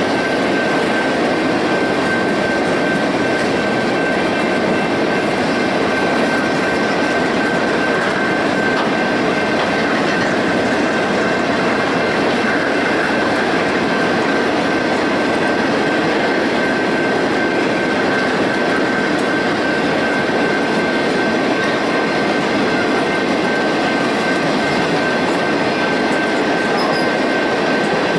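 Railroad ore cars rolling past: a steady rumble of steel wheels on rail with a thin, steady high-pitched wheel squeal held throughout.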